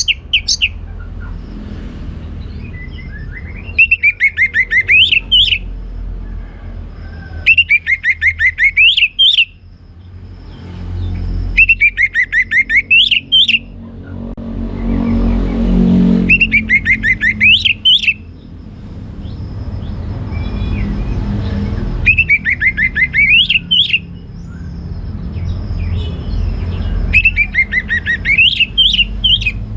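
Orange-headed thrush singing six loud song phrases, each about two seconds long and a few seconds apart, every phrase a run of rapid, sweeping whistled notes. A low rumble sits underneath and swells around the middle.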